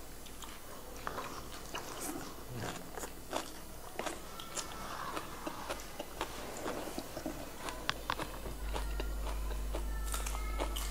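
Close-miked crunching and chewing of raw vegetables: fresh leafy greens and shredded green papaya salad bitten and chewed, with many short crisp crunches.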